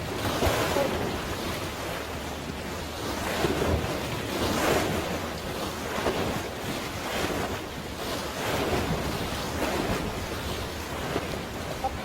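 Sea waves washing and splashing in repeated surges every second or two, with wind buffeting the microphone.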